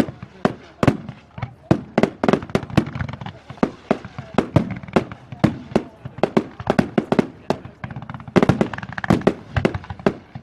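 Fireworks display: a rapid run of sharp firework bangs and crackles, several a second, thickening into a denser volley about eight and a half seconds in.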